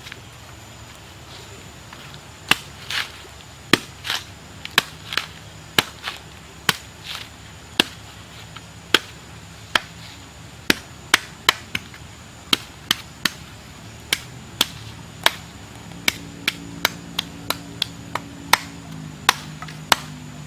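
Repeated chopping: a blade strikes over and over in sharp, separate blows at an uneven pace of about one to two a second. A faint low hum comes in near the end.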